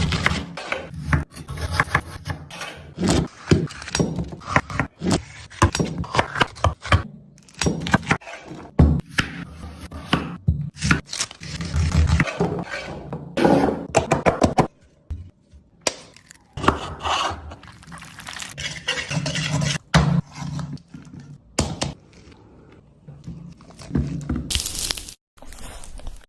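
Food preparation in a kitchen: irregular knocks, thunks and scrapes of utensils and food being handled, with a few short pauses.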